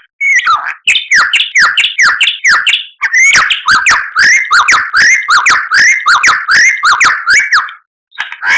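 White-rumped shama (murai batu) singing a loud, fast string of repeated sharp whistled notes, about three a second, in runs broken by brief pauses.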